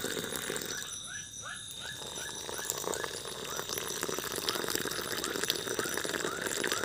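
A frog calling over and over, short rising notes about three a second. Behind it is a steady high drone of insects.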